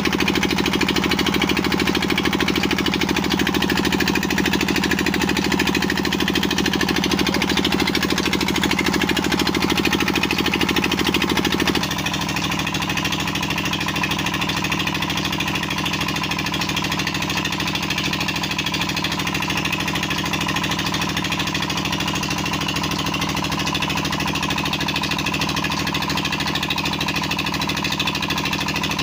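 Single-cylinder Petter-type diesel engine running steadily under load, driving a tubewell water pump, with a fast, even thudding beat. About twelve seconds in the sound becomes slightly quieter and thinner in the low end.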